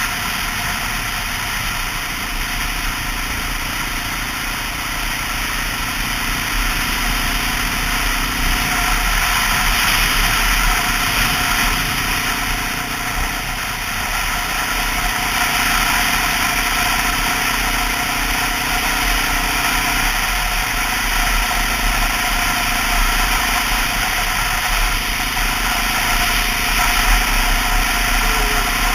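2002 Honda XR650L's single-cylinder four-stroke engine running steadily under way, mixed with a constant rush of riding noise; the engine note dips slightly a couple of times.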